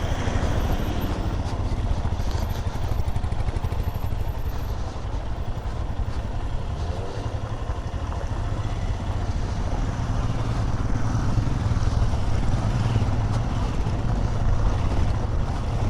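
Motorcycle running at a steady pace while being ridden, a constant low engine drone mixed with road noise.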